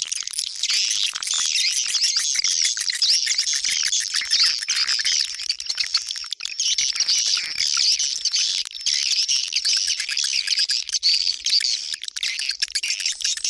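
Swiftlet lure call: dense, continuous high twittering and chirping of swiftlets, the sound played to draw passing swiftlets to a nesting house.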